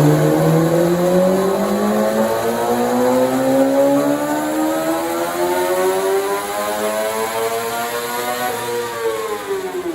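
Sportbike engine pulling hard in one gear, its pitch climbing steadily for about eight seconds, then easing off near the end as the throttle closes.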